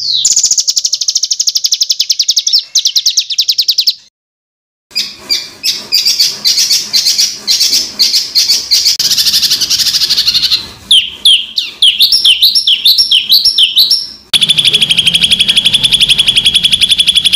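Edited recordings of songbirds giving fast, harsh, high-pitched trills and chattering 'tembakan' phrases, the kind of material used to tutor caged songbirds. A rapid trill stops about four seconds in; after a second of silence comes dense chatter, then a run of quick sweeping notes, and near the end an abrupt cut to another fast steady trill.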